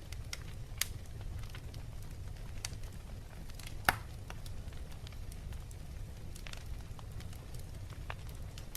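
Wood fire burning in a fireplace: a steady low rumble with irregular crackles and pops, one sharp pop standing out about four seconds in.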